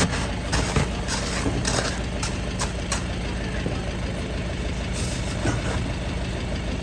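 An engine running steadily at idle, a low even hum, with scattered short clicks and knocks, most of them in the first three seconds.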